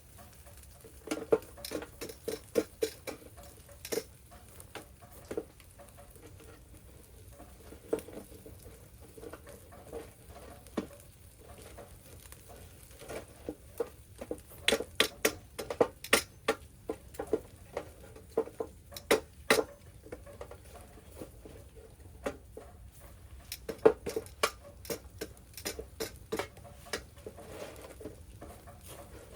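Irregular taps and pops of rain dripping and a wood fire crackling, in uneven clusters over a faint steady hiss.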